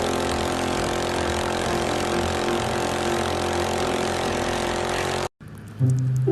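A steady motor or engine hum, even in level, that cuts off suddenly about five seconds in.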